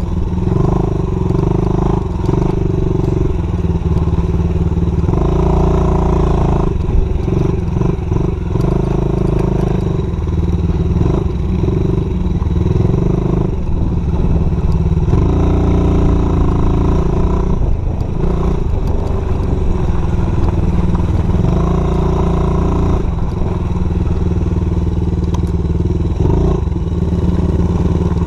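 Dirt bike engine running as it is ridden, its pitch rising and falling again and again as the throttle opens and closes.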